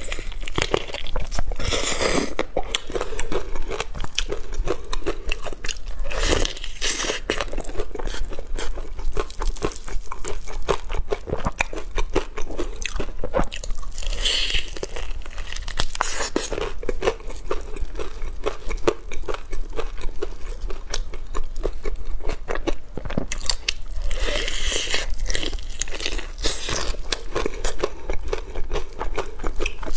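Close-miked biting and chewing of breaded fried chicken coated in ketchup: crisp crust crunching under the teeth with wet chewing, with louder crunchy bites every several seconds.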